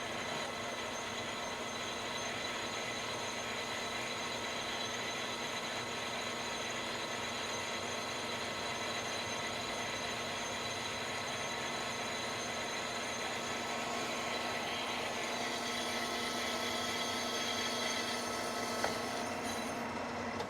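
Manual lathe running under power feed, its tool taking a finishing cut on the outside diameter of a steel plate: a steady mechanical drone with several steady whining tones. There is a single click near the end.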